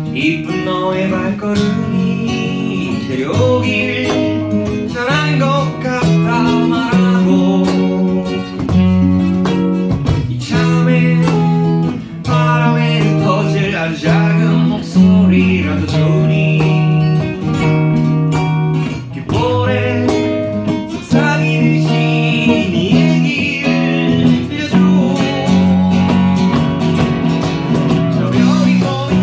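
Live acoustic guitar strummed and picked, accompanying a singer.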